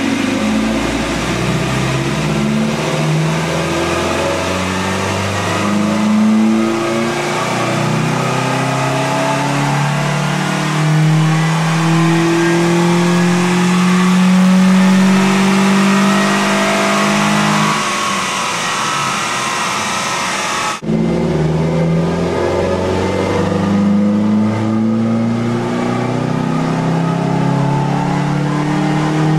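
A 2008 Scion xD's 1.8-litre four-cylinder, breathing through a Takeda cold air intake, rising steadily in pitch through a long full-throttle pull on a chassis dyno, easing off about 18 seconds in. After a sudden cut, the same engine is heard from inside the cabin, revving up again.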